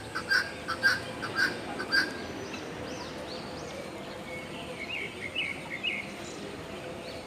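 Aviary birds calling: a quick series of short, sharp calls in the first two seconds, then softer scattered chirps around the middle.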